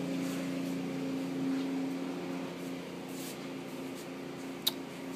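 Automatic car wash heard from inside the car: a steady mechanical hum, with short faint hisses of foam spraying onto the glass and one sharp click near the end.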